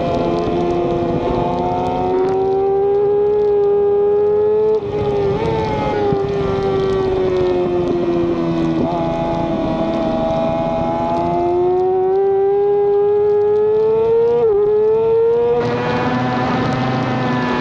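Race motorcycle engine at high revs, heard onboard. Its pitch sinks slowly and climbs again, broken by sudden short drops about five seconds in, around nine seconds, and near the end, where it rises sharply and then drops at a gear change.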